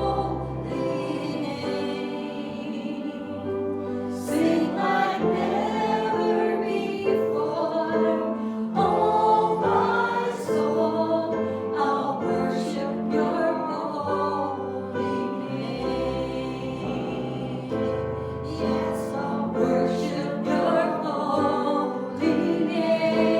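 A group of voices singing a worship song together, with instrumental accompaniment and a bass line moving under it.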